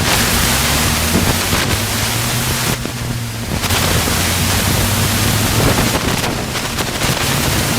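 Wind rushing over the microphone, with a steady low engine hum underneath.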